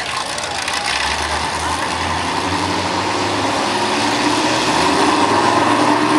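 A vehicle engine running and gradually rising in pitch and getting louder, as a car or truck accelerates or comes closer on the drag strip.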